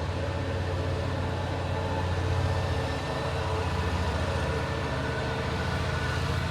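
A steady, low mechanical hum with a fine rapid flutter, like a motor or machine running at constant speed.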